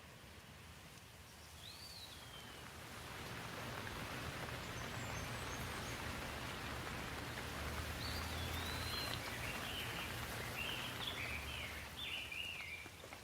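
Steady rain falling, growing heavier over the first few seconds and easing slightly near the end. A bird chirps once near the start and several times in the second half.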